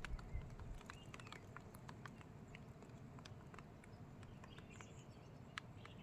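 Faint outdoor ambience: scattered soft clicks and a few brief, distant bird chirps over a low rumble.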